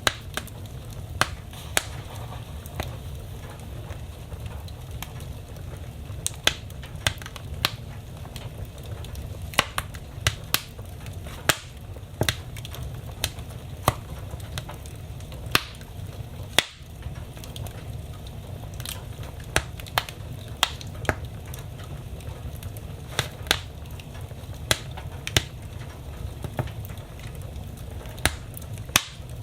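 Wood fire burning in a fireplace: a steady low rumble of flame under sharp crackles and pops of burning wood, coming irregularly about one or two a second.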